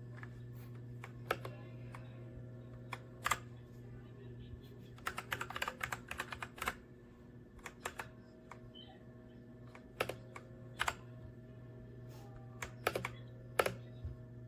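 Keystrokes on a Redragon K617 Fizz 60% mechanical keyboard: scattered single key presses, with a quick flurry of typing about five seconds in.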